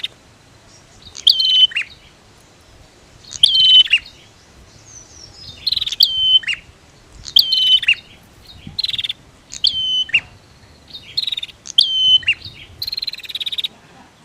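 Bar-winged prinias (prenjak) calling: a short, sharp, chattering phrase with quick falling whistled notes, repeated about every two seconds, roughly seven times.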